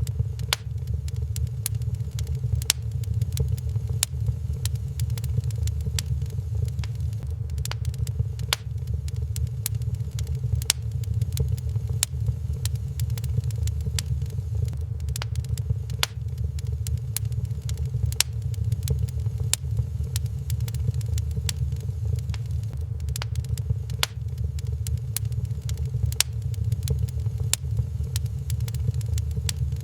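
Wood fire crackling in a fireplace: sharp irregular pops and snaps, several a second, over a steady low rumble.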